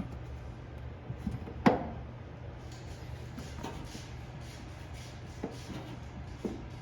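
Scattered clicks and knocks of a rubber drain hose and plastic parts being handled and pushed into place inside a washing machine, the sharpest knock a little under two seconds in, over a steady low hum.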